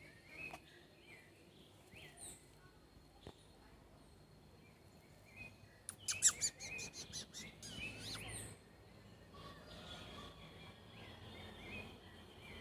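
Several wild birds chirping in woodland, with short calls repeating throughout and a louder run of quick high notes about six seconds in.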